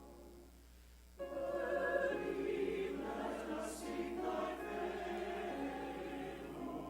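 Choir singing, coming in suddenly about a second in after a brief lull.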